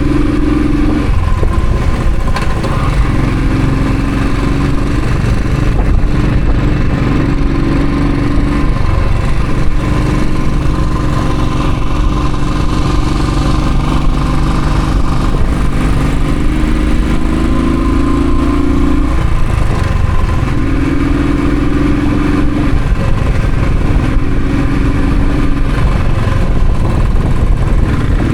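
Royal Enfield Thunderbird single-cylinder motorcycle engine running under way, a steady heavy rumble with its note rising and falling in stretches of a second or two as the throttle changes.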